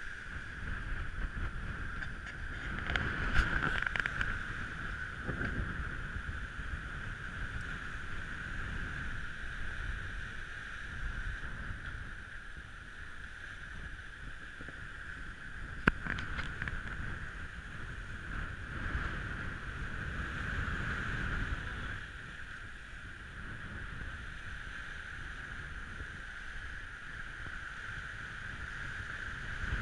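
Gale-force wind and rushing water around a Lagoon 620 sailing catamaran running downwind, heard as a steady low rush with a high-pitched whine over it. There is one sharp knock about 16 seconds in.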